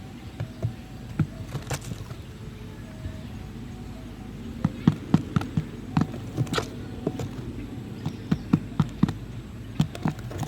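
A series of irregular sharp knocks and taps, coming thicker and louder in the second half, over a steady low background noise.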